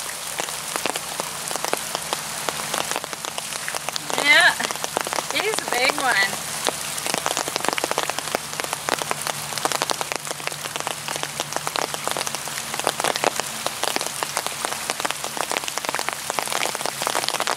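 Rain falling, heard as a dense, irregular ticking of drops striking a surface close to the microphone.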